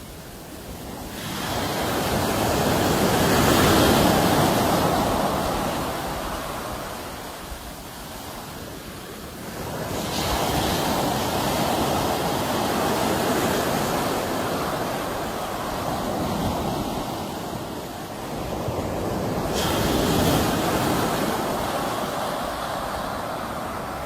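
Sea waves breaking and washing up the shore, three surges in turn, each rising and then slowly ebbing away.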